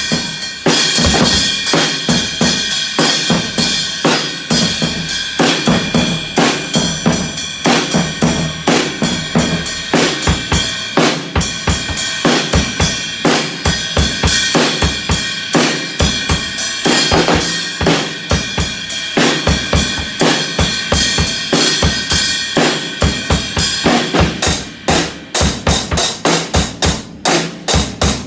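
Drumming: a fast, steady stream of drum hits over a constant ringing, which breaks into sharper, more separate hits near the end.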